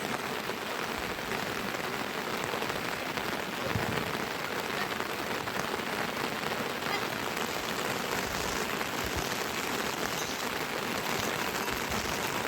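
Steady rain falling, an even hiss throughout, with a dull knock about four seconds in.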